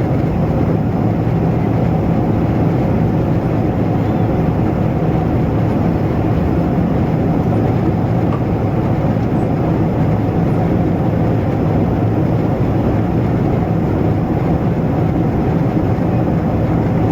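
Steady cabin noise inside a Boeing 777-200ER in flight: an even, deep rush of engine and airflow noise that does not change.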